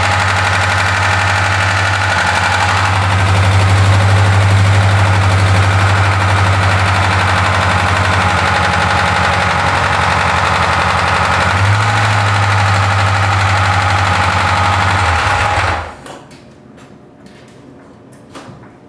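2000 Ford Ranger 2.5-litre four-cylinder engine running just after a start, with a clacking, clunking noise that comes and goes, which the owner suspects is the clutch slave cylinder or the clutch itself. The engine shuts off about 16 seconds in, leaving a few light knocks.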